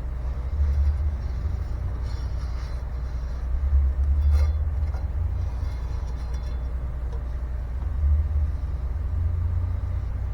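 A steady low rumble that swells louder several times, with a single sharp click about four seconds in.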